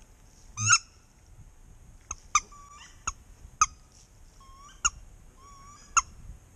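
Duck call being blown by a beginner: one loud honking note about a second in, then a string of short, sharp quacks with gaps between them, and faint thin whistled notes in between.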